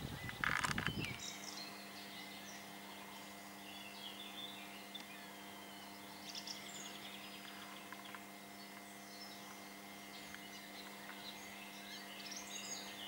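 Birds chirping and singing in the background, in short scattered calls. A few knocks and rustles in the first second, then a faint steady hum sets in for the rest.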